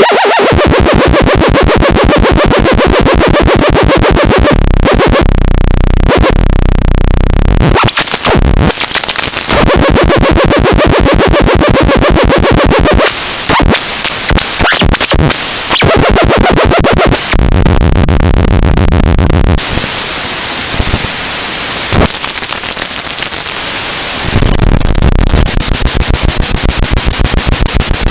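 Loud, harsh synthesized electronic noise with a fast stuttering pulse, its pattern changing abruptly every few seconds.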